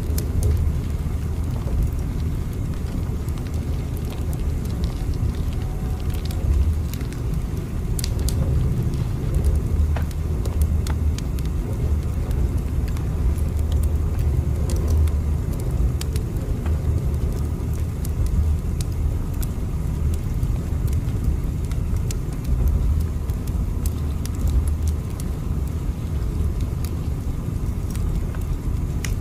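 Steady low rumble of a train running, with faint scattered crackles and ticks over it.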